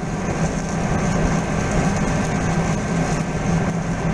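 Steady machinery drone with a low hum and a faint high steady tone, unchanging throughout.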